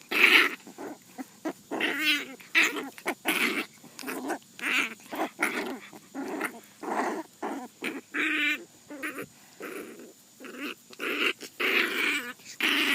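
Puppy growling in a rapid string of short bursts, some rising into higher, wavering cries.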